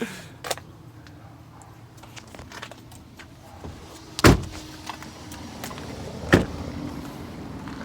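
Two loud, sharp thumps about two seconds apart, a little over four and six seconds in, with a few lighter clicks before them and a steady low hum: handling noises on a pickup truck, such as a door or latch being shut.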